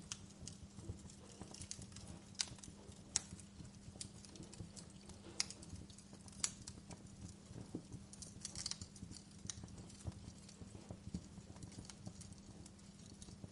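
Wood fire in a fireplace crackling, with irregular sharp pops and snaps, several standing out clearly, over a soft even hiss and a steady low hum.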